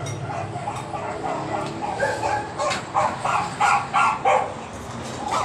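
A dog barking: a quick run of about eight short barks, starting about two seconds in.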